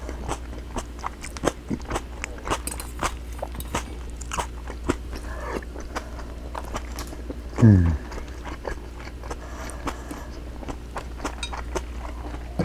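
Close-up chewing and biting, with many small wet clicks and crunches. A short falling tone comes about eight seconds in and is the loudest moment.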